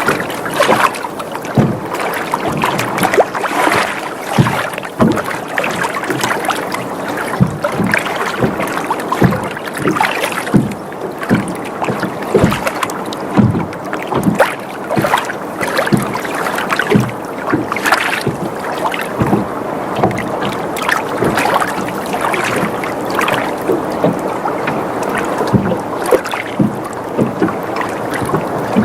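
Water sloshing and lapping against a boat's hull, with frequent irregular slaps and knocks as the boat rocks.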